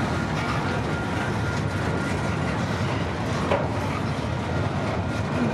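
CPKC freight train's cars rolling steadily past at track speed, a continuous rumble of steel wheels on rail. A thin steady high tone sounds through the first half.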